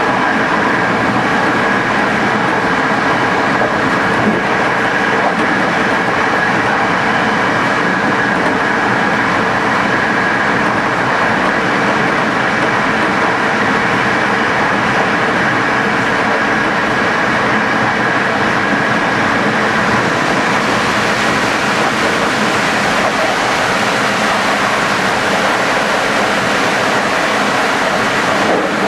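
Locomotive-hauled passenger train running steadily at speed: a continuous rumble and rush of wheels on rail, with a faint steady whine over it.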